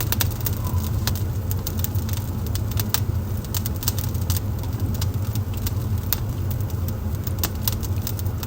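Wood fire burning in a fireplace, with frequent sharp, irregular crackles and pops over a steady low rumble.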